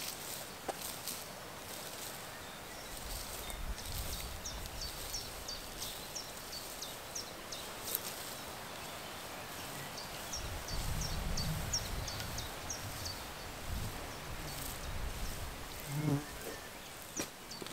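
A small bird singing two runs of short, high, downward-sliding notes at about three a second, over quiet open-air background with a low rumble at times.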